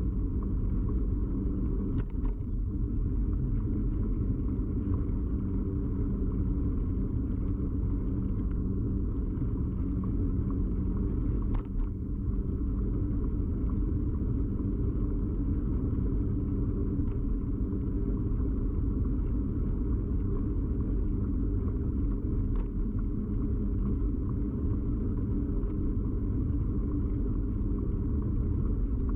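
Steady low rumble of a bicycle in motion heard through a camera fixed to the bike: tyre and frame vibration carried into the mount. A couple of short sharp knocks, about two seconds in and again near twelve seconds.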